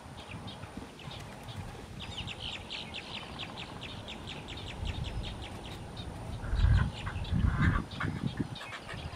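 Birds calling: a fast run of short, high notes, about seven a second for some three seconds, with scattered single notes around it. Low rumbles come in near the end and are the loudest sound.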